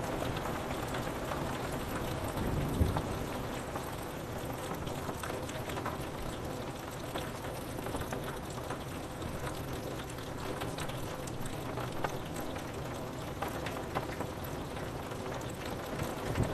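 Steady rain on window glass: a constant hiss of falling drops with scattered sharp ticks, and a brief low rumble of thunder about three seconds in.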